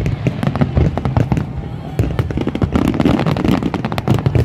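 Fireworks display: aerial shells bursting in rapid, overlapping bangs and crackles over a low rumble.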